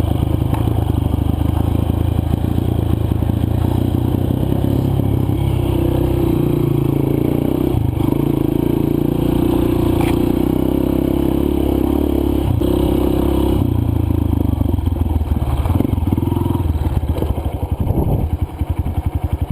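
Dirt bike's single-cylinder four-stroke engine running while riding a loose, sandy trail, its pitch shifting with the throttle, with clattering and scraping of loose ground under the tyres.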